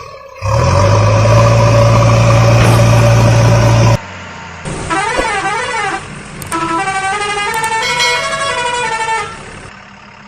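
A loud, steady horn blast lasting about three and a half seconds, then a warbling electronic sound effect and a short stepping jingle of separate notes that fades out near the end.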